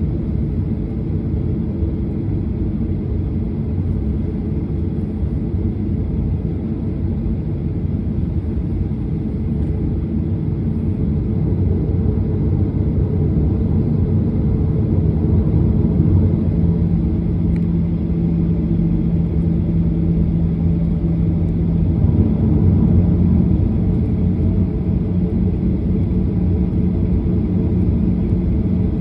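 Airliner on the ground heard inside the cabin: a steady low rumble of the engines running at taxi power, with a steady hum that comes in about halfway through.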